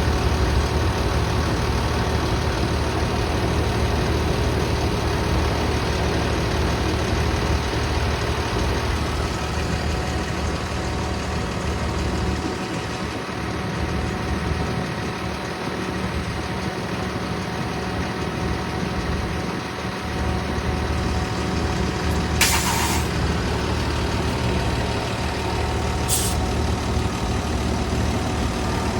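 Jet fuel truck's engine running steadily with its pumping system engaged. About 22 seconds in there is a short sharp hiss of released air, and a briefer, thinner hiss about four seconds later.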